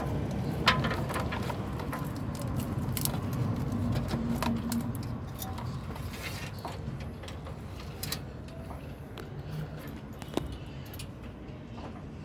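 Scattered light metallic clinks and knocks over a low rumble. The rumble is stronger over the first few seconds and then fades.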